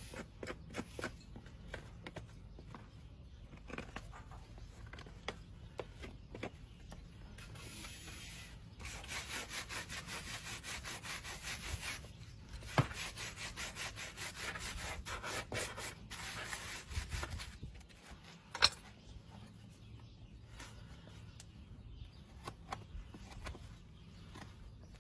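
Hoof rasp filing a horse's hoof in quick repeated strokes for several seconds in the middle, with scattered scrapes and a few sharp clicks before and after.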